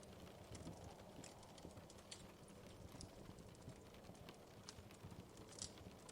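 Wood fire crackling faintly, with irregular small pops over a soft low rumble.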